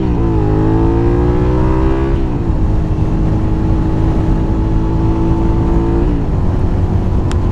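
Suzuki SV V-twin motorcycle engine accelerating through the gears: the engine note rises, drops with an upshift just after the start and again at about two seconds, then holds a steady cruising pitch before stepping down once more near the end.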